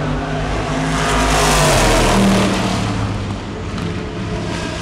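DTM race car passing at speed. Its engine gets loudest about two seconds in, then drops in pitch and fades as it moves away.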